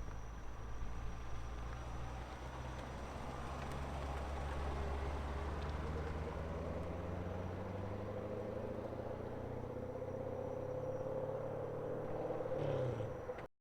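Muscle car exhaust running at low speed, with a steady low rumble. Its note rises slowly through the second half, then cuts off suddenly at an edit.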